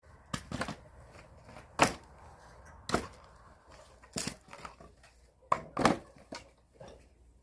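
Firewood being chopped: sharp woody knocks roughly once a second, some of them doubled, the last one fainter.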